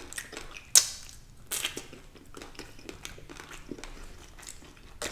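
Close-up eating sounds: a person chewing and biting food, with one sharp click about three-quarters of a second in, the loudest moment, followed by a run of small, irregular crackles of chewing.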